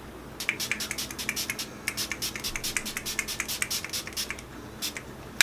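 Pump-bottle face mist (Tatcha Luminous Dewy Skin Mist) sprayed in a rapid series of short hissing spritzes, several a second, for about four seconds.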